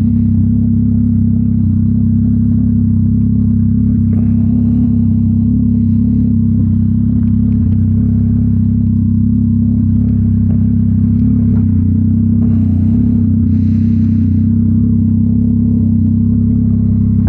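Yamaha MT-09 SP's three-cylinder engine idling steadily through a Mivv X-M50 aftermarket exhaust, with an even, unchanging pitch.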